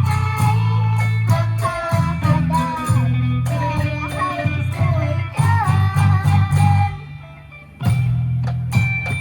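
Pong lang ensemble playing Isan folk music: a plucked string melody with bent notes over a heavy bass line and percussion. The music drops away briefly about seven seconds in, then the band comes back in.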